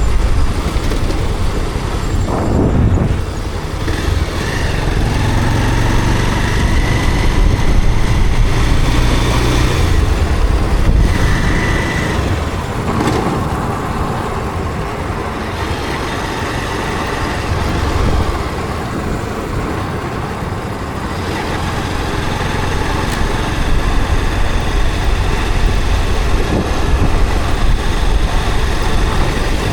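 Motorcycle riding through city traffic: its engine running under wind rush, with the noise of surrounding road traffic.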